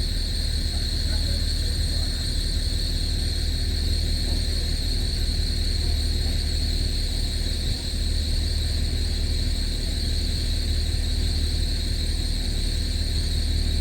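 Steady low machinery hum of a ship, with a constant high-pitched shrill tone running above it.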